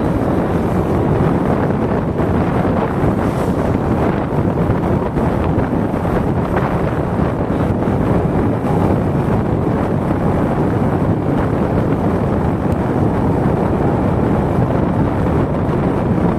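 Steady, loud wind buffeting the microphone of a camera riding along on a moving motorcycle: a constant low rushing noise with no distinct engine note standing out.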